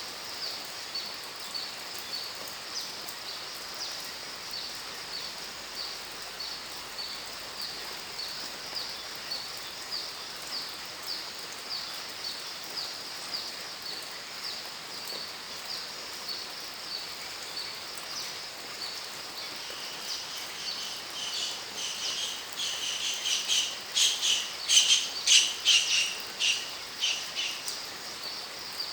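Outdoor nature ambience: a steady run of short high chirps, a few a second, over a soft background hiss. About two-thirds of the way through, a louder series of bird calls comes in, loudest near the end.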